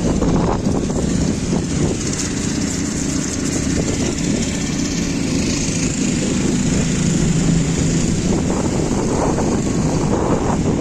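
Steady low rumble of vehicle traffic with a faint engine hum, and wind buffeting the microphone.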